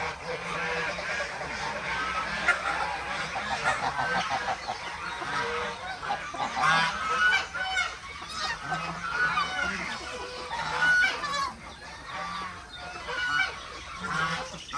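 Domestic geese honking, many short calls overlapping throughout, with other farm poultry calling among them.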